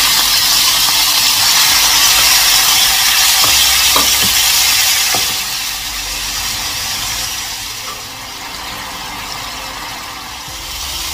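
Raw chicken breast pieces sizzling in hot oil in a nonstick frying pan, a loud steady hiss that settles to a softer sizzle about halfway through.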